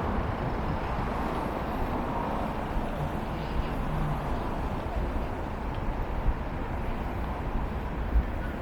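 City street ambience: a steady rumble of passing traffic with a faint murmur of people, and a couple of brief knocks near the end.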